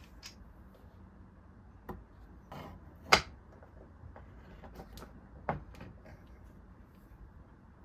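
A few separate knocks and clicks, the loudest about three seconds in and another about five and a half seconds in, with a brief scrape between the first two, over a faint low hum.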